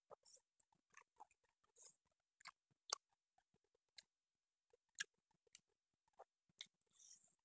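Faint mouth sounds of a person eating squirrel meat: chewing with irregular sharp clicks and wet smacks, a few strong ones about three and five seconds in.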